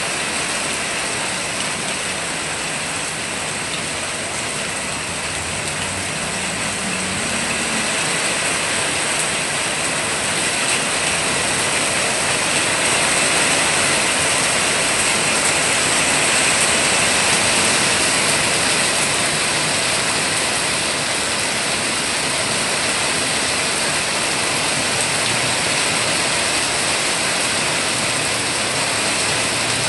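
Steady rain falling on dense garden foliage, a constant hiss that grows a little louder around the middle.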